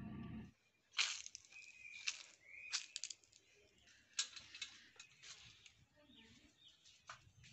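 Faint bird calls: scattered sharp chirps with a couple of short whistled notes, after background music cuts off about half a second in.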